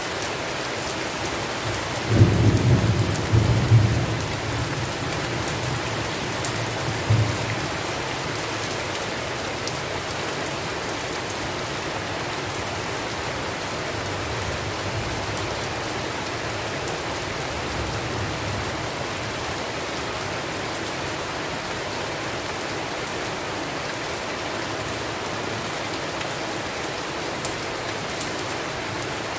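Steady heavy rain, with a loud roll of thunder about two seconds in that rumbles on for a couple of seconds, a shorter thunder crack near seven seconds and faint distant rumbles later on.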